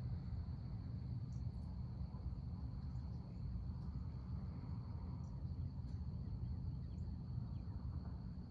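Crickets trilling steadily in one high, unbroken pitch over a constant low rumble, with a few faint, brief chirps.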